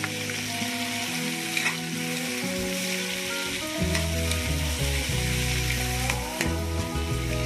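Sliced tomatoes and onions sizzling in a hot oiled wok while being stirred with a metal ladle, with a couple of clicks of the ladle against the pan: the sauté (gisa) stage of the dish. Background music plays underneath and gets louder about halfway through.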